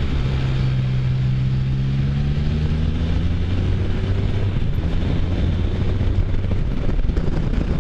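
Can-Am Spyder F3's three-cylinder Rotax engine under way, its note rising slowly as it accelerates over the first few seconds, then settling, with steady wind rumble on the microphone.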